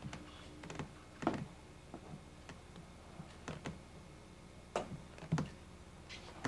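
Scattered light clicks and knocks of small objects being handled, irregular rather than rhythmic, with the strongest knocks about a second in and twice around five seconds in.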